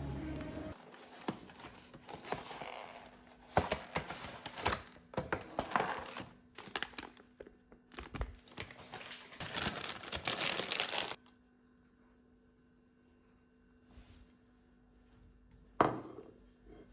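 Packaging of Turkish delight crinkling and tearing as it is opened, in a run of bursts that stops about two-thirds of the way through. A single sharp knock near the end.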